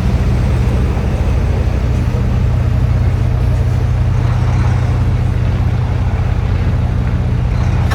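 Semi-truck diesel engine running steadily with a low, even hum.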